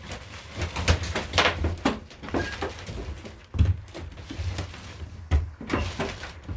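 Scattered knocks, clicks and clatter of hand work on a lawn tractor engine, over a low rumble.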